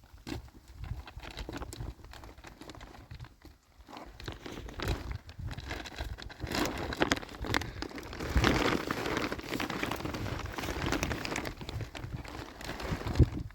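Plastic sheeting crinkling and rustling, with scattered clicks and knocks, growing louder and busier about halfway through.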